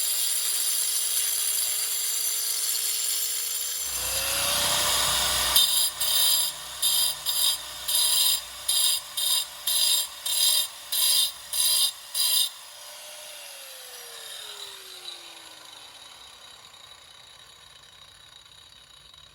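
Power grinder whining as it grinds a hollow into a rock, biting into the stone in about a dozen short strokes, roughly two a second. It is then switched off, and its whine falls in pitch as it winds down.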